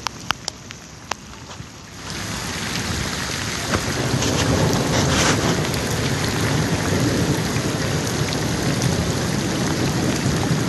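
Heavy rain pouring down. For the first two seconds it is quieter, with a few sharp drops tapping, then about two seconds in it jumps abruptly louder and stays a dense, steady downpour.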